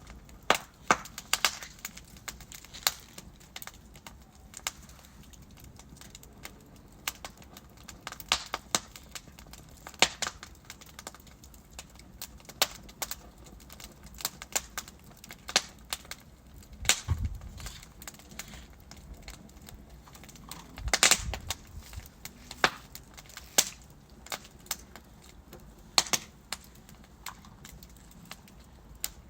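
Wood logs burning in a fireplace, crackling with irregular sharp pops over a faint steady background. There is a brief run of louder pops a little past halfway, and another about two-thirds of the way through.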